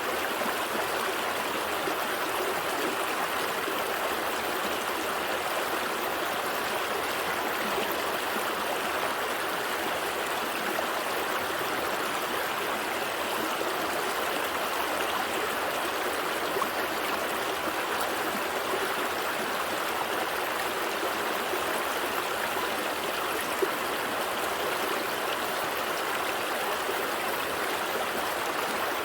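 A gentle stream flowing and gurgling over rocks, a steady even rush of water.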